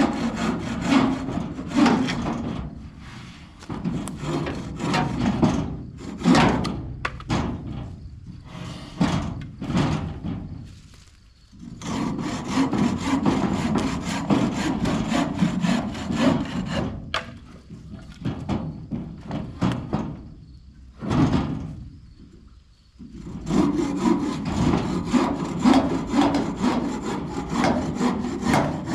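Hand saw cutting through wood in fast back-and-forth strokes, in several long runs broken by short pauses.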